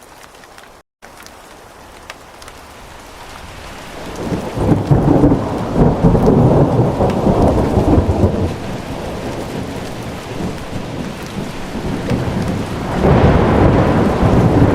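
Steady rain with rolling thunder, which swells in about four seconds in, eases, and builds again near the end. The sound cuts out completely for an instant about a second in.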